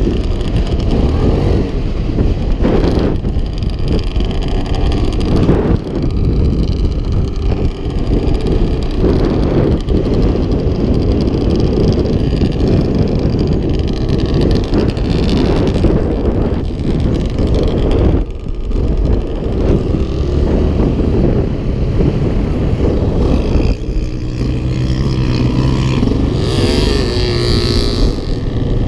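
Off-road engine running, a quad or dirt bike, steady for most of the time, with its pitch rising and falling as it revs near the end.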